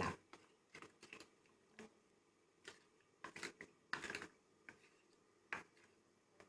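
Faint, irregular clicks and taps of a spoon against a bowl while spice powders are stirred with water into a masala paste, bunched together around three to four and a half seconds in.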